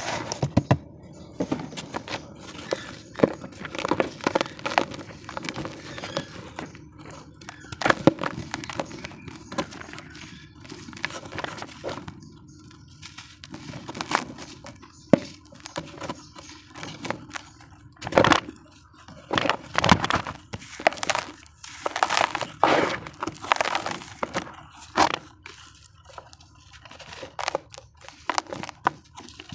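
Damp cement crumbling by hand: irregular cracks and crunches, some sharp and loud, coming in quick clusters with short gaps between.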